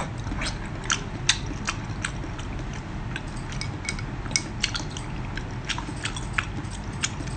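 Close-up eating sounds: chewing and biting on spicy seafood, with irregular short, sharp, wet clicks a few times a second.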